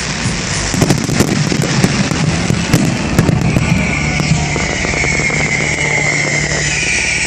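Fireworks bursting, with rapid crackling pops and bangs through the first half over loud background music. The pops thin out after about four seconds and the music carries on.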